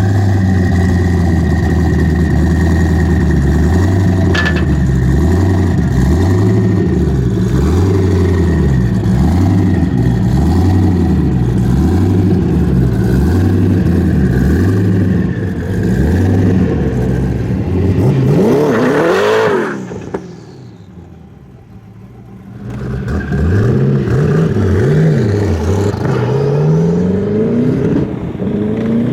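V8 muscle-car engine revved over and over in quick blips, about one a second. It climbs to one big, high rev about two-thirds of the way through, drops away briefly, then revs again and climbs near the end.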